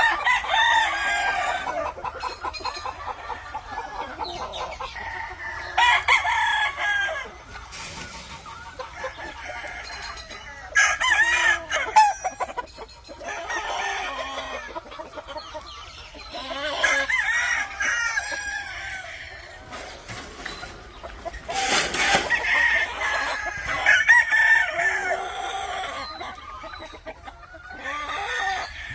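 Roosters crowing one after another, many times, with clucking between the crows.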